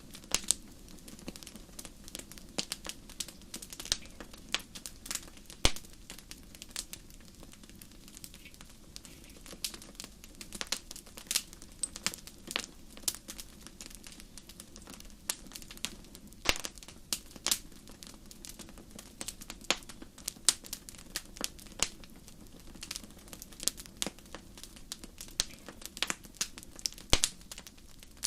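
Wood fire crackling in a fireplace: irregular sharp pops and snaps, often several a second, over a steady low rush of the burning.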